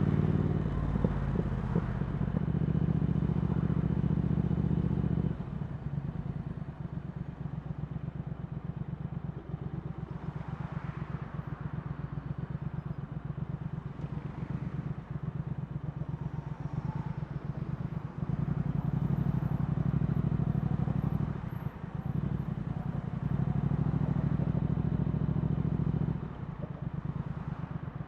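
Triumph Speed Twin 1200's 270-degree parallel-twin engine through a Vance & Hines slip-on exhaust, ridden at an easy pace. It runs steadily on the throttle, then from about five seconds in the throttle is closed and the exhaust puts out a rapid uneven puttering for over ten seconds. It comes back on the throttle twice near the end.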